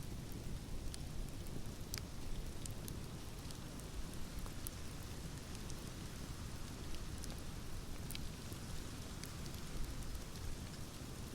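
Wood fire crackling in a fireplace: a steady low rumble and hiss with scattered sharp pops and snaps.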